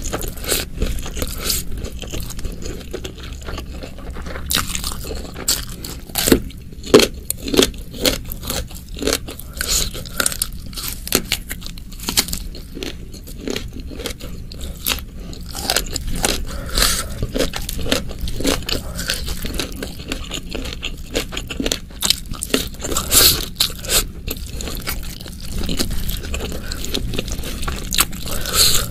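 Close-miked chewing of rice with spicy beef oseng mercon, as many sharp clicks in an irregular rhythm. Near the start and again near the end, fingers scrape and squish through the rice and sauce.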